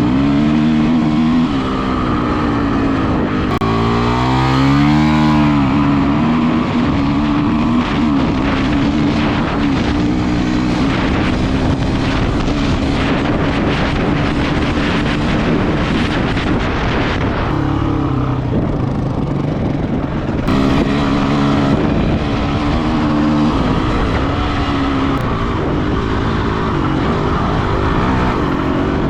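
Honda CRF250X dirt bike's single-cylinder four-stroke engine, ridden across a field: its pitch rises and falls as the throttle is worked, easing off briefly about two-thirds of the way through, heard from a helmet chin-mounted camera.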